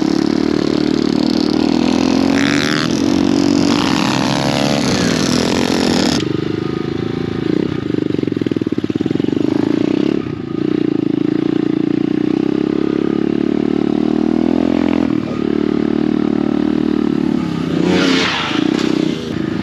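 Pit bike engine running hard while being ridden, its note steady with a few brief dips in level. The sound changes abruptly about six seconds in.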